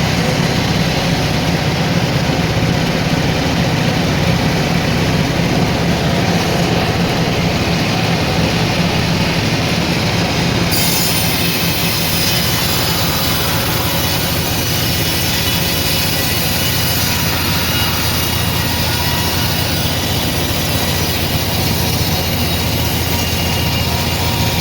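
Sawmill saw running through a teak log: a loud, steady machine noise with a low hum and a thin high whine. About eleven seconds in the sound suddenly turns brighter.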